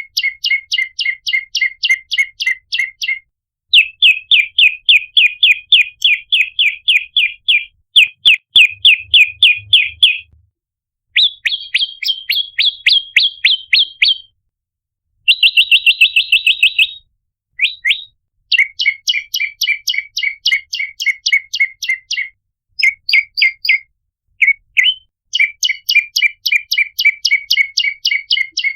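Prenjak lumut (olive-backed tailorbird) calling: fast runs of sharp, high repeated chip notes, about five or six a second, in bursts of a few seconds with short breaks and changing pitch between runs. This is a lure call used to attract the species.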